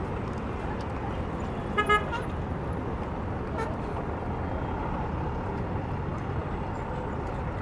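Steady city street traffic noise, with a vehicle horn giving two short toots about two seconds in.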